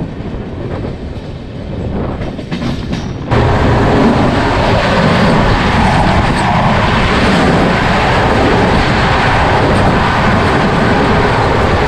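Passenger train running, a steady rumble and rattle of the moving coach. It is quieter for the first three seconds, then suddenly louder from there on.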